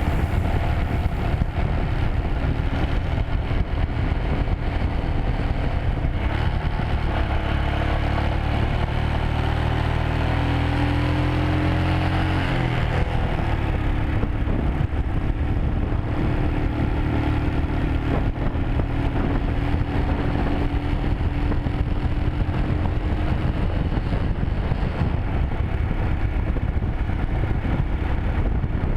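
Motorcycle engine running under way along a road, its note changing about halfway through as the revs shift, then holding steady.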